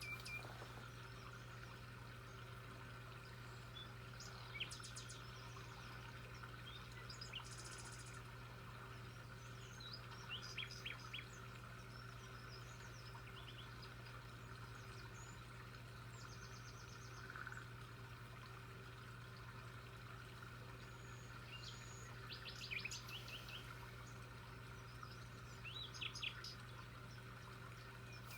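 Birds chirping now and then, short calls and quick trills scattered through, over a steady low hum.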